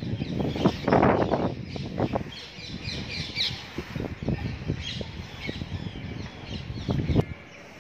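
Birds chirping and squawking, over scattered low thumps and rustling that are loudest about a second in.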